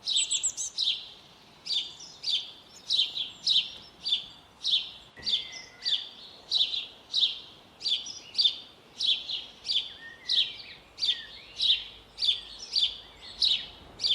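A small bird chirping over and over, about two short, high, downward-sweeping chirps a second, with fainter calls from another bird now and then.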